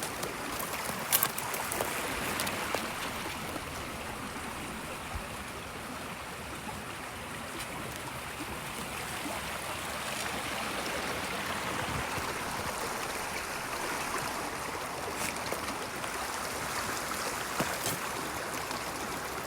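River water flowing steadily, with a few light clicks from time to time.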